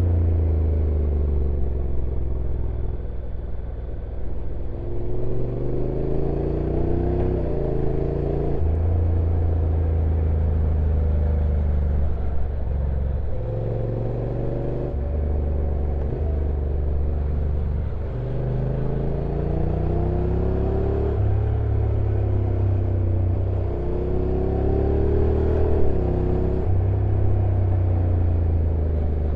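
Honda NC750X DCT's parallel-twin engine riding downhill, its pitch gliding up and down again and again with abrupt steps every few seconds as the dual-clutch transmission changes gear, over a steady low rumble.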